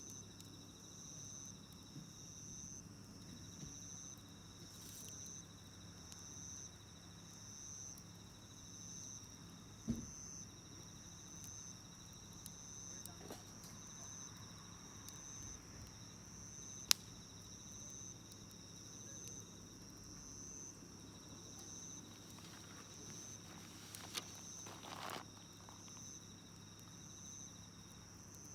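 Insects chirping in a steady, evenly pulsing high rhythm over a second steady high trill, with a few sharp pops and crackles from a wood campfire, the loudest about seventeen seconds in.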